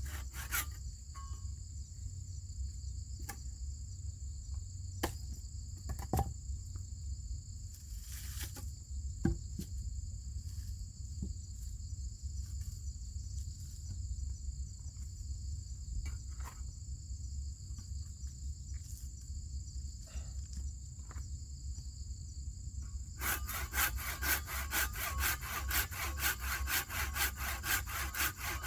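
A hand saw cutting through wood in rapid back-and-forth strokes, stopping just after the start and resuming about five seconds before the end. In the long pause between, insects buzz steadily at a high pitch over a low rumble, with a few scattered knocks.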